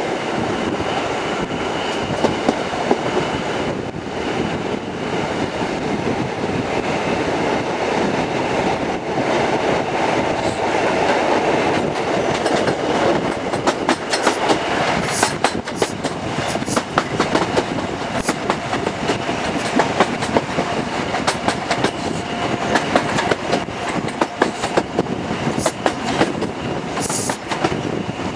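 HST passenger train running at speed, heard from an open coach window: a steady noise of wind and wheels on rail, with wheels clicking over rail joints, the clicks coming thicker from about halfway.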